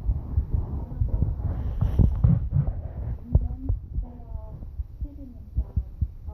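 Irregular dull thumps and scuffling bumps, typical of a hamster grappling with and knocking against an Angry Birds decoration. A faint voice is heard in the background.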